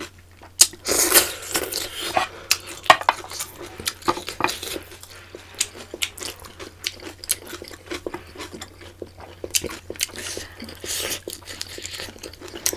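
Close-miked eating sounds: chewing and wet mouth smacks as octopus tentacle and fried prawns are eaten by hand, with many short sharp clicks and a few louder noisy bursts.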